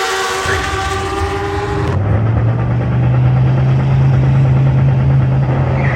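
A vehicle engine held at high revs, giving a sustained, slightly falling high note. About two seconds in it switches abruptly to a deeper, steady engine note.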